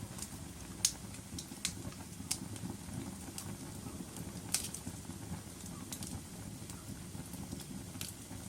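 Wood fire crackling in a fireplace: a steady low rush of flames with irregular sharp pops and snaps, the loudest about a second in and again past the middle.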